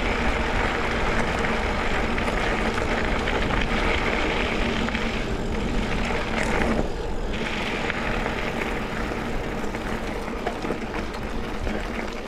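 Steady rush of wind over the microphone mixed with the tyres of a mountain bike rolling over a dirt double-track trail. The rush eases briefly about five to seven seconds in.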